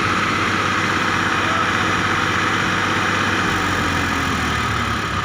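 Tractor diesel engine running steadily, its pitch sagging a little about halfway through.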